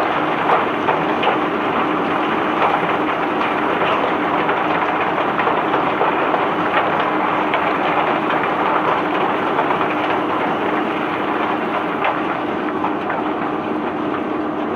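Cobblestones and gravel tumbling off a barge during unloading: a dense, steady clatter of many small stone knocks over a faint, even machinery hum.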